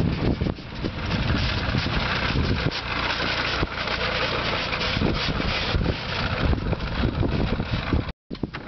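Engine running under heavy wind buffeting on the microphone, a dense continuous roar that drops out for a moment near the end.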